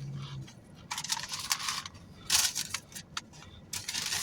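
Irregular crinkling and crunching from a takeout meal being handled and eaten, in short bursts about every half second to second.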